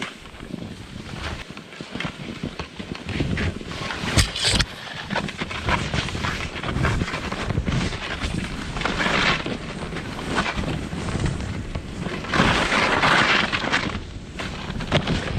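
Skis or board sliding and carving through snow: a rough scraping hiss that swells with each turn, loudest near the end, mixed with wind buffeting an action camera's microphone. A few sharp knocks about four seconds in.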